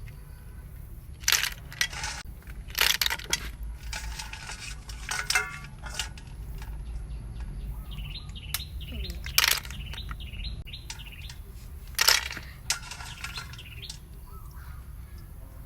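Snail shells clinking and clattering against a metal pot in a series of sharp, irregular knocks as they are handled, with small birds chirping from about halfway through.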